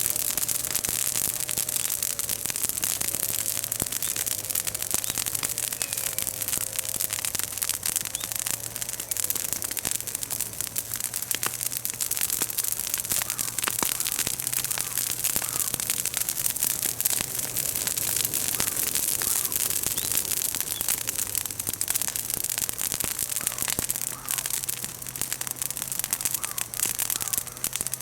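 Bonfire of freshly fallen green chestnut branches and leaves crackling and popping, with many rapid small cracks over a steady hiss.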